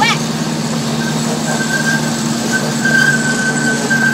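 Small zoo ride train running with a steady low drone. A brief falling chirp comes right at the start, and a thin, steady high squeal sets in about a second and a half in.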